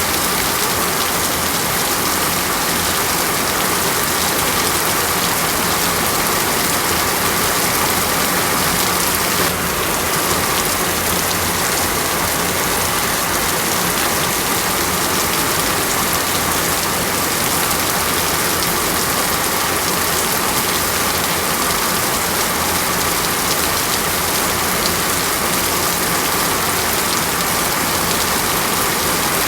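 Heavy rain falling steadily in a rainforest, a dense even hiss with no let-up, with a faint steady tone running under it.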